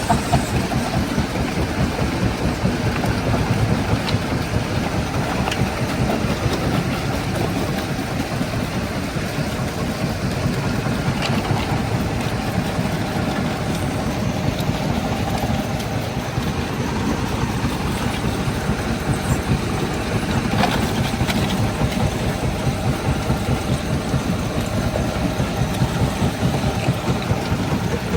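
Stone crusher plant machinery running steadily: a heavy, continuous low rumble with a fast rattle of rock and steel and occasional sharper clicks.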